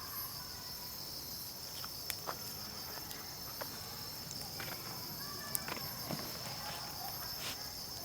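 Steady chorus of night insects: a continuous high trill with a pulsing, higher-pitched singing above it. Scattered light clicks and knocks sound through it.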